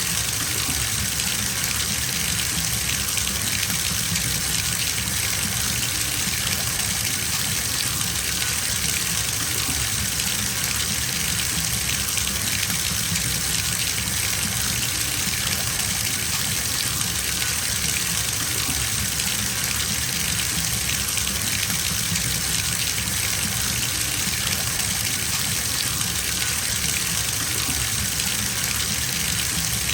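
Tap water pouring steadily into a bathtub as it fills, a constant gushing rush with no breaks.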